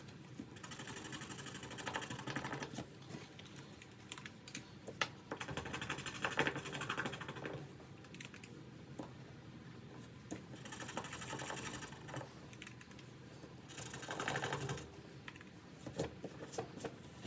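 A scratch tool scraping the scratch-off coating on a paper savings challenge card. It goes in about four bursts of quick back-and-forth strokes, with short pauses between them.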